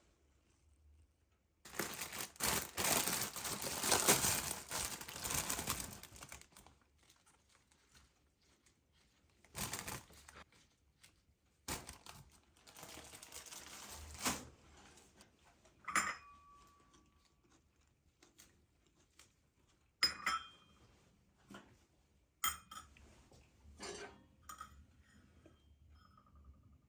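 Kitchen handling sounds. First comes a few seconds of crinkling and tearing of packaging or wrap, then two shorter rustles. After that come several sharp clinks and knocks of dishes or utensils, one with a brief ring.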